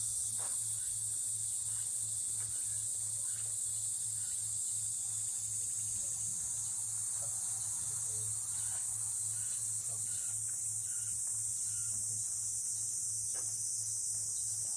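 A dense chorus of insects shrilling steadily at a high pitch, with a low steady hum underneath.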